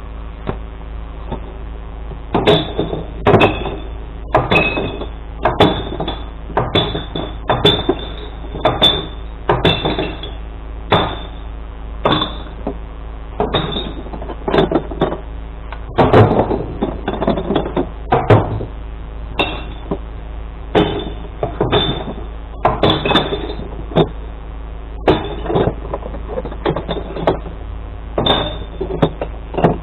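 Glass bottles and jars clattering and clinking in irregular bursts as they are tipped into a glass-recycling truck, over the steady hum of the truck's idling engine.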